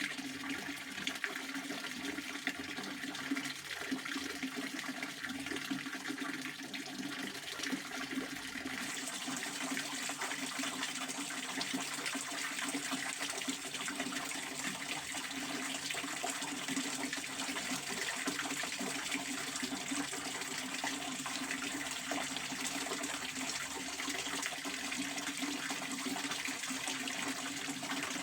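Pond water fountain splashing, a steady, continuous rush of falling water.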